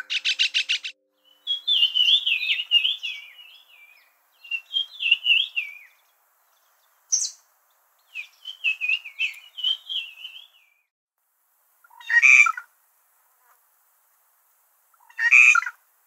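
Wild birds singing and calling. A quick rattle of notes opens, followed by several warbling phrases and then two short harsh calls near the end.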